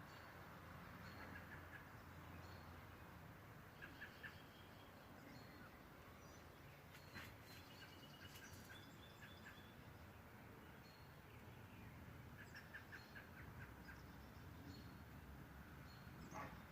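Faint bird chirps and short calls over a steady background hiss, coming in scattered bursts: around four seconds in, several more in the middle, and again near the end.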